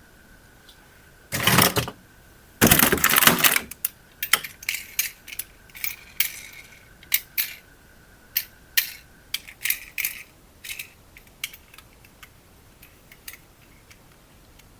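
Handling of small hard plastic objects: two loud rustling scrapes early on, then a run of irregular clicks and taps that thin out toward the end, over a faint steady high tone.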